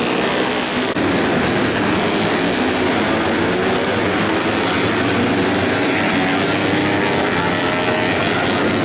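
Several racing motorcycle engines running hard together, their pitches rising and falling as the riders rev and shift.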